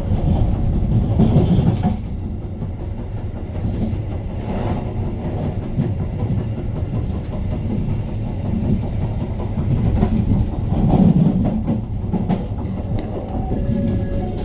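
KA Argo Bromo Anggrek passenger train running on the rails: a steady low rumble of wheels and coaches with clickety-clack, swelling slightly about a second in and again near eleven seconds.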